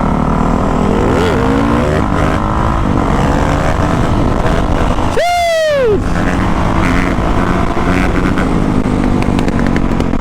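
450cc four-stroke motocross bike engines running, with a steady engine and wind noise throughout. About five seconds in, one bike is revved hard, its pitch climbing sharply and falling back within about a second.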